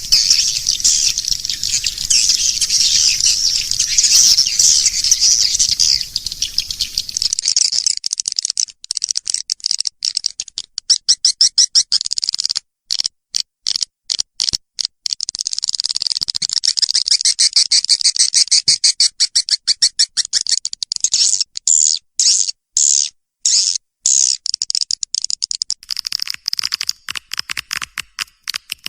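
Swiftlet lure-call recording: a dense mass of rapid, high-pitched swiftlet chirps and twitters. A low rumble underneath stops about seven seconds in, after which the chirping is cut into short snatches by repeated sudden dropouts to silence.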